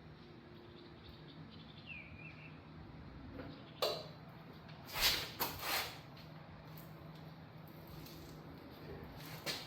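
Work noises: a sharp click about four seconds in, then a few short rustling scrapes and another near the end, over a low steady hum. There is a faint brief squeak about two seconds in.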